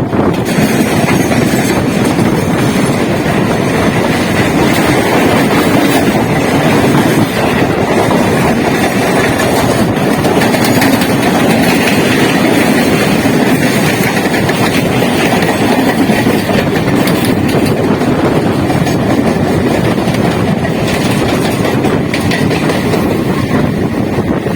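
Electric multiple unit (EMU) local train running at speed: a loud, steady rumble of wheels on rail with a clickety-clack over the rail joints.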